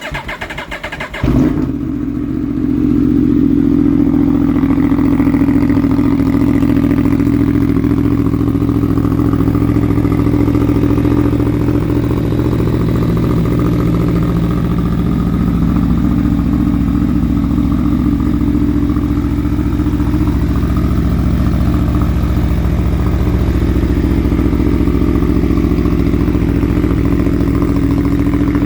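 A 2018 Aprilia Tuono V4 1100's 65° V4 engine is cranked on the starter for about a second, catches with a sudden loud burst, and settles into a steady idle.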